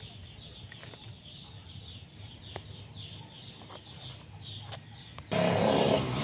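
Faint chirping of birds, many short quick calls, with a few light clicks. About five seconds in, a much louder steady low hum with a hiss cuts in suddenly.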